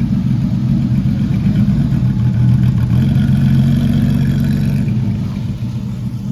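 A car engine running steadily with a low, even hum, getting quieter about five and a half seconds in.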